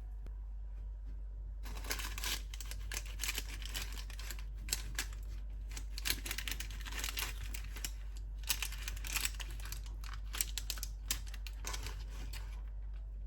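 Irregular crinkling and rapid clicking, like packaging or paper being handled, starting about two seconds in and stopping shortly before the end, over a steady low hum.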